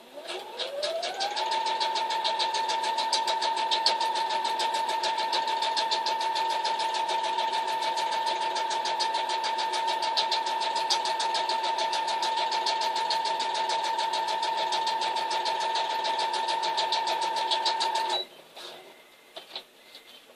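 Electric sewing machine stitching through dog food bag material. Its motor comes up to speed with a rising whine over the first second or so, then runs at a steady speed with rapid, even needle clicks, and stops abruptly about 18 seconds in.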